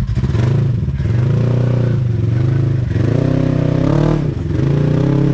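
Polaris RZR side-by-side engine revving in three surges, the pitch climbing and falling with the throttle as it works to crawl up a rock obstacle.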